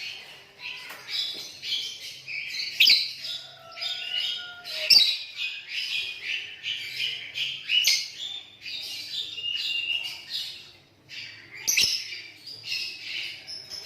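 Lovebird chattering song: a continuous stream of rapid high chirps and trills, broken by a few sharp, louder squawk-like notes and a brief pause near the end.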